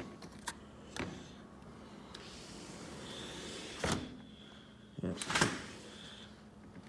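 A door being handled: several knocks and clunks, the loudest a double clunk about five seconds in, over a soft hiss.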